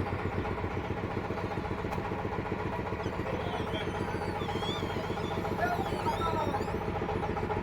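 A sawmill's engine running steadily, with an even, rapid pulse.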